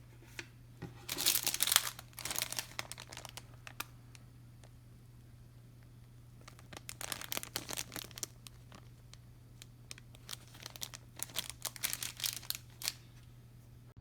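Crinkly material being handled, crinkling and rustling in irregular bursts: one stretch in the first few seconds, another around the middle and a third near the end. A faint steady low hum sits underneath.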